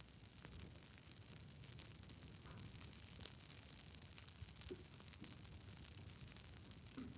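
Wood campfire crackling faintly: frequent small pops and snaps over a low steady hiss.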